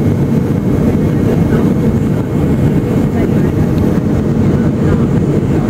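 Steady low roar of a Boeing 757's engines and rushing air heard inside the passenger cabin, with faint passenger voices under it.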